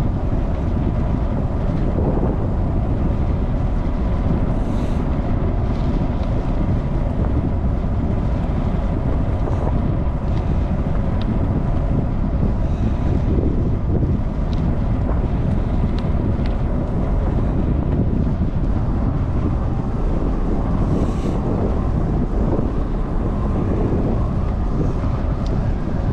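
Steady wind rush buffeting the microphone from a moving vehicle, with a low road rumble underneath and a faint steady hum.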